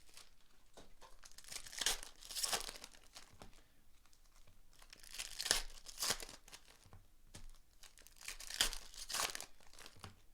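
Foil trading-card pack wrappers being torn open and crinkled, in three spells of rustling about two, five and nine seconds in.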